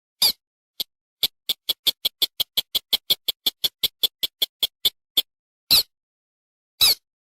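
Lure-call recording of a paddy-field rail (sintar / mandar / pitik-pitian sawah) calling: one call, then a rapid even run of short high notes at about seven a second, then three single calls.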